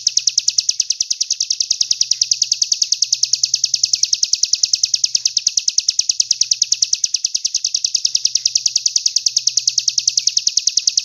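Songbird chirping in a fast, very even series of high-pitched notes, about eight a second without a break: a repeated song phrase of the kind played as 'masteran' for training competition songbirds.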